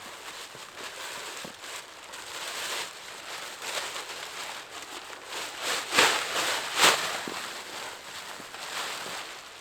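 Footsteps crunching through deep snow, an irregular series of steps with two louder ones past the middle.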